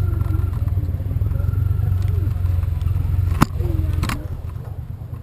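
Steady low rumble of a car heard from inside the cabin, with a sharp click about three and a half seconds in and another just after four seconds, when the rumble drops.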